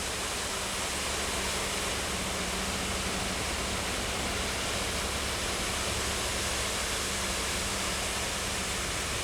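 Concrete mixer truck running steadily while it loads concrete into a crane's concrete bucket: an even rushing noise over a low engine hum.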